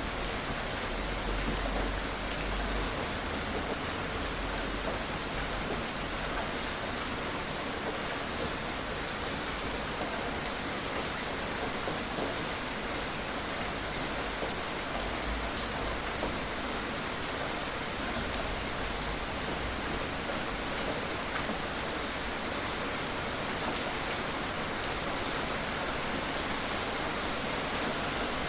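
Steady, gentle rain falling, with fine drops ticking on surfaces and no thunder. A soft low rumble swells briefly early on and again about halfway through.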